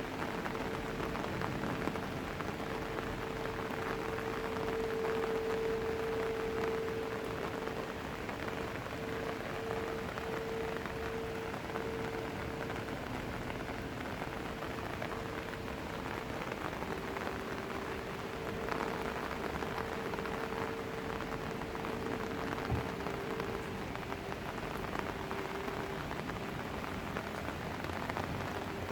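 Steady rain falling and pattering on surfaces, with a steady hum underneath that drops slightly in pitch about halfway through.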